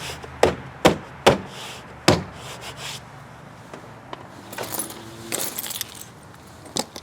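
Four sharp clicks and knocks in the first two seconds, then lighter rattling and one more click near the end: small parts and tools being handled during car door repair work.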